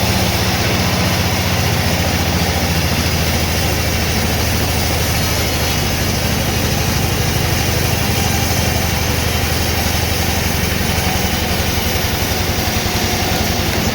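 An engine running steadily at a constant speed, with an even low pulsing.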